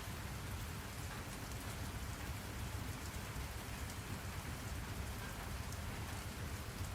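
Steady rain falling, an even hiss of drops with a low rumble beneath it, used as background white noise.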